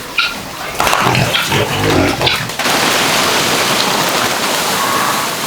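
Ducks calling in short, pitched bursts for the first two and a half seconds, then a steady hiss sets in abruptly and holds to the end.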